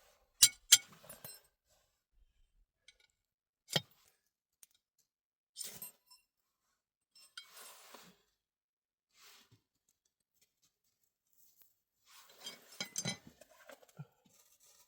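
Sharp clinks and knocks of objects being handled: two loud ones near the start and another a few seconds later, with spells of rustling between.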